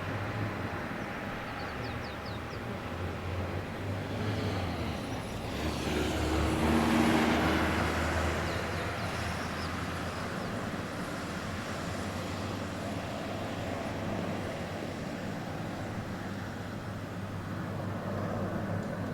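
Boeing 757 jet engines, the noise swelling to a peak about seven seconds in, then settling to a steady rumble.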